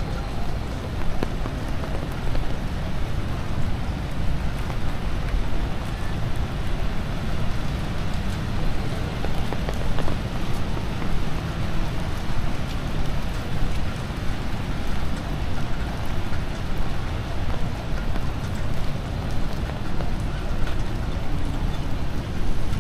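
Steady typhoon rain falling on wet city pavement, an even hiss with a low, fluttering rumble underneath.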